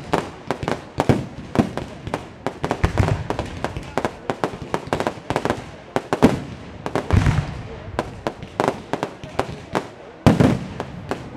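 Fireworks display: aerial shells and crackling stars bursting in quick, overlapping bangs, several a second. Deeper booms come every few seconds, with a loud one about ten seconds in.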